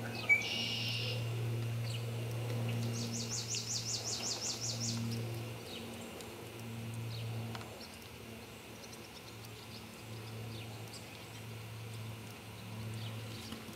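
A bird sings a rapid high trill of about seven chirps a second for some two seconds. Just before it there is a sharp click and a one-second buzzy note, and a low hum comes and goes underneath.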